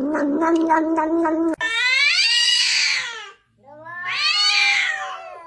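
Cat vocalising: a long, steady, low yowl with a faint pulsing in it, then after an abrupt cut two loud, drawn-out meows, each falling in pitch at the end.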